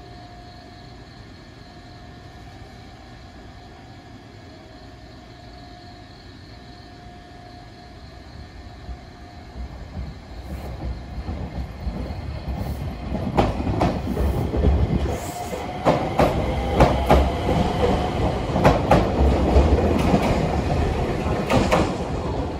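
A train running in, quiet at first, then growing louder about halfway through, with a low rumble and repeated wheel clacks over the rail joints.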